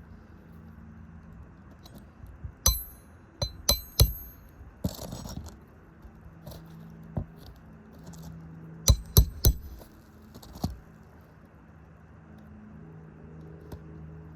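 Hammer striking metal, sharp ringing blows in quick runs of three or four, with a brief scrape between runs, as nails are worked with a shingle repair tool. A low steady hum runs underneath.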